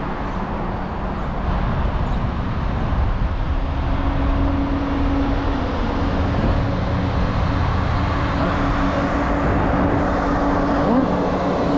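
Road traffic noise, a steady wash of vehicles, with a vehicle engine's steady hum coming in about four seconds in.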